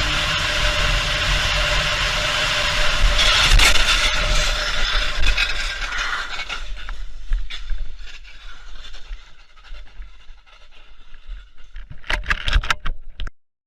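Car driving, recorded by a dashcam: steady road and engine noise that grows rougher and louder a few seconds in, then dies down to scattered knocks, with a quick run of sharp clicks just before the sound cuts off.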